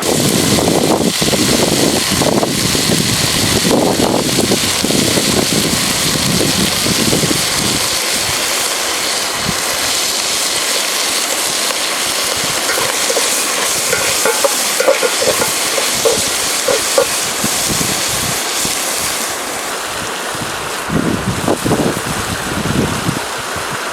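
Steady rushing of river water, with a run of short pitched notes in the second half.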